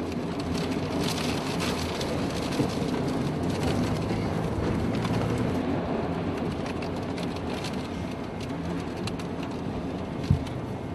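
Wind-driven rain rushing steadily against a vehicle in a tornado, with scattered sharp ticks of things striking it and one low thump near the end.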